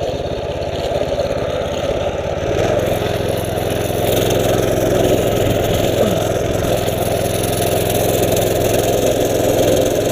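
Mini bike's small engine running steadily as it is ridden, its note firming up and getting a little louder about two and a half seconds in.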